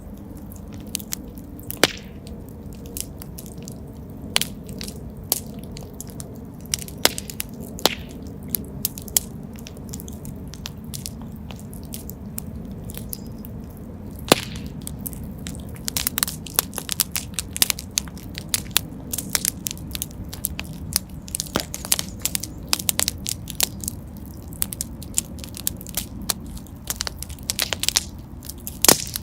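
Fire in a fireplace crackling: a steady low rumble of flames with sharp pops and snaps scattered throughout, coming thicker and faster from about halfway through.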